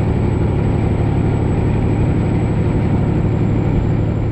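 Freightliner Classic XL semi truck's diesel engine droning steadily at cruising speed, with road and wind noise, heard inside the cab.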